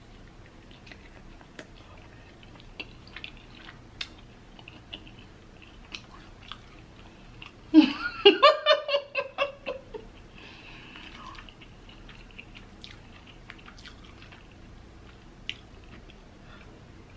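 Soft wet chewing and mouth clicks from someone eating rotisserie chicken. About eight seconds in, a burst of laughter through a full mouth lasts about two seconds and is the loudest sound.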